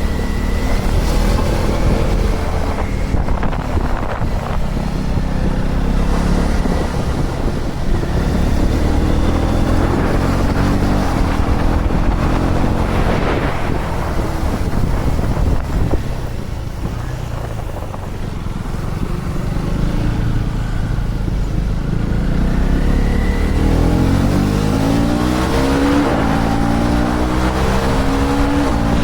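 KTM Duke 250's single-cylinder engine running on the move, its pitch rising twice as it revs up under acceleration, over steady wind rush on the microphone.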